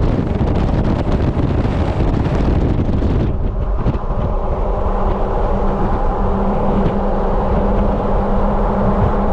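Jeep driving, with wind rushing over the GoPro's microphone. About three seconds in, the wind noise drops away, leaving a steady engine and road drone.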